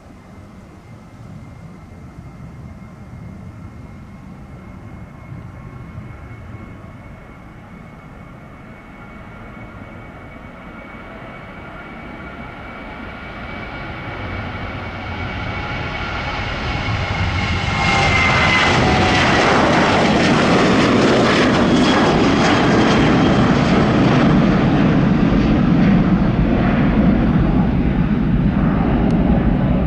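Boeing 737-800 jet taking off, its CFM56 engines' whine and jet noise building steadily, then sweeping down in pitch as it passes a little past halfway and staying loud after.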